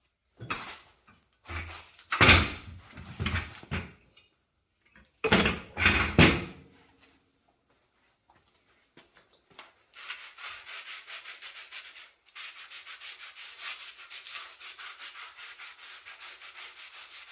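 Rubbing and scrubbing on the locomotive chassis while chain lubricant is cleaned off. A few loud scraping rubs come in the first seven seconds, then from about ten seconds in a fast, even scrubbing of several strokes a second.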